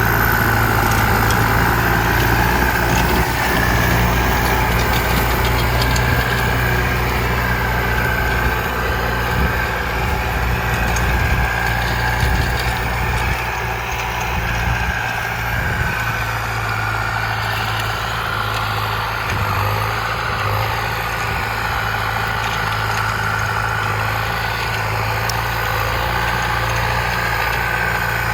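Kubota ZT155 single-cylinder diesel tractor engine running steadily, a low engine note with a wavering whine above it, easing off slightly about halfway through.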